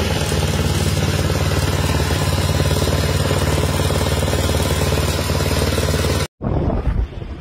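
A steady running engine under a loud, even noisy rumble, which cuts off abruptly about six seconds in. After the cut comes gusting wind noise on the microphone.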